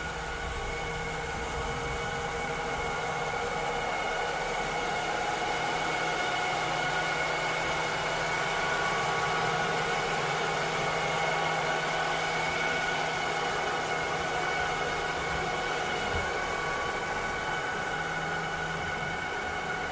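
Cleaning robot running steadily: a continuous motor whir with an airy hiss and several steady high whining tones over a low hum.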